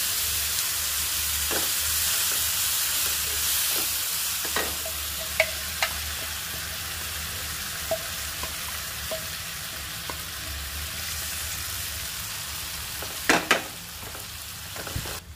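Tomato pulp sizzling as it hits hot oil with fried onions in a nonstick kadai on a low flame; the sizzle is loudest at first and slowly settles. A few light knocks along the way, and a wooden spatula knocking and scraping against the pan as it stirs near the end.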